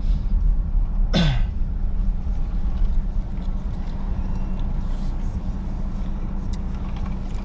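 Steady road and engine drone of a car heard from inside the cabin. About a second in, one brief sound from a person falls sharply in pitch.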